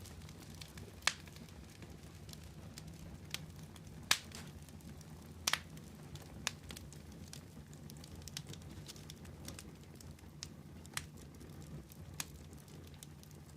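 Wood fire crackling, with sharp irregular pops every second or two over a low, steady rumble.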